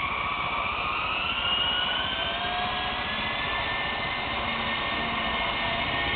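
Small radio-controlled electric helicopter's motor and rotor running at speed, a steady whine with several tones that creep slightly higher over the first couple of seconds and then hold.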